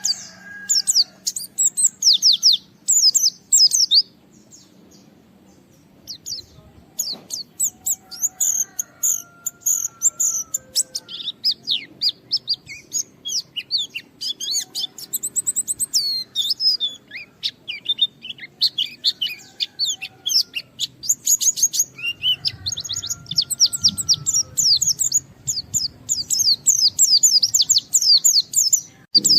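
White-eye (pleci) singing hard: fast runs of high, twittering chirps and trills. The song pauses for about two seconds a few seconds in, then goes on almost without break.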